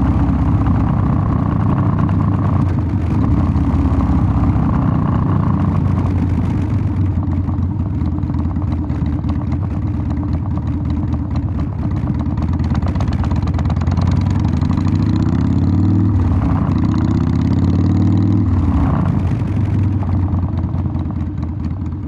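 Harley-Davidson Sportster 1200's air-cooled V-twin running through its exhaust, steady at first, with the engine speed rising and falling a few times in the second half.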